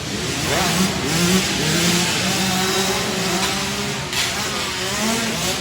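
Several 65cc two-stroke youth dirt bikes racing, their engines revving up and dropping back as they accelerate and shift, the notes overlapping.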